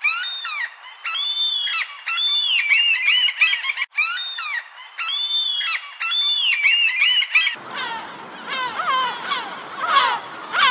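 Gulls calling in a run of loud, high yelps, about one a second. About seven and a half seconds in the calls turn lower and come over a steady low rushing noise.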